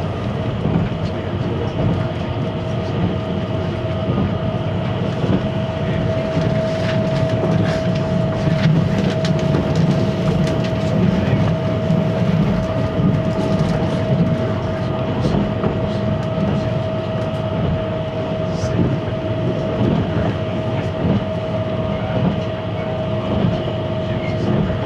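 Inside a 583 series electric train running at speed: a steady low rumble with a constant hum and scattered clicks of the wheels over the rail joints.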